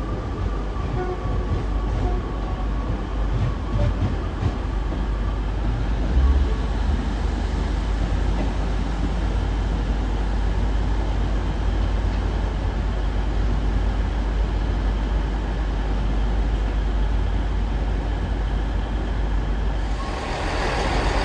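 A train running at the station, a steady low rumble with a faint high whine that falls slightly over the first few seconds. There is a short low thump about six seconds in, and the sound grows brighter and louder near the end.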